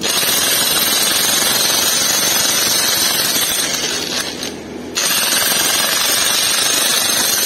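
Loud, continuous rapid hammering of a power tool. It eases off briefly about four seconds in and comes back at full strength a second later.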